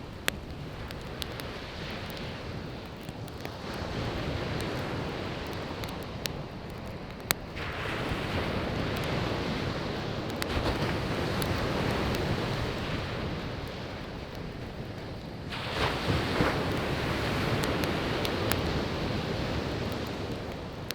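Sea waves breaking and washing up the beach, swelling in surges several times, with sharp pops and crackles from burning firewood over the top, two louder pops near the start and about seven seconds in.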